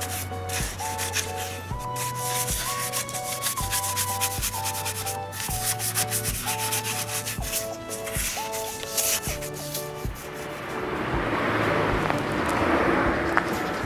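A paintbrush scrubbing wood preservative onto a wooden cage frame, in irregular scratchy strokes, over background music with a simple stepping melody and a low bass note. About ten seconds in, the music and brushing give way to a steady outdoor noise haze.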